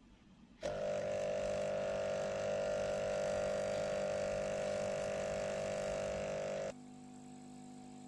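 Aquarium aerator air pump running with a loud, steady hum that starts abruptly about half a second in; near the end it cuts to a quieter, lower hum.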